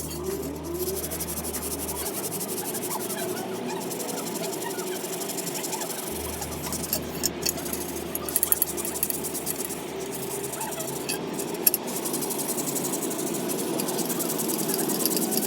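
A Yamaha Serow 225 stainless steel muffler being polished: a steady working noise with a fast, even rhythm, broken by a few sharp clicks in the middle.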